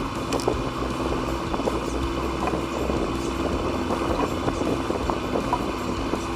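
Steady low mechanical hum and rumble, like a running motor, with a few faint ticks.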